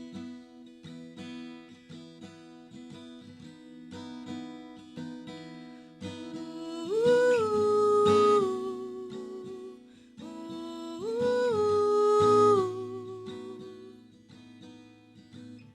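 Acoustic guitar picking an intro, joined twice, about seven and eleven seconds in, by a wordless hummed vocal phrase that rises, holds and steps down.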